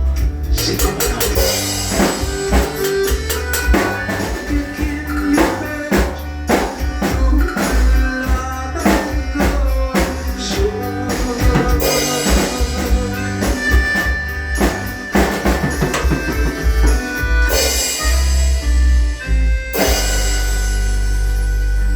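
Drum kit played over a recorded ballad's instrumental ending, with steady kick, snare and cymbal hits. In the last few seconds the beats give way to a sustained cymbal wash and a held final chord.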